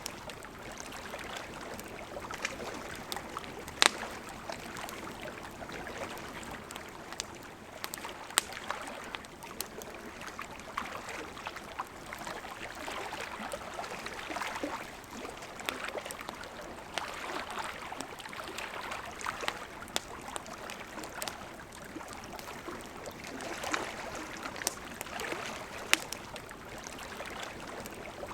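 A river flowing steadily, with a campfire crackling over it in scattered sharp pops, the loudest about four seconds in.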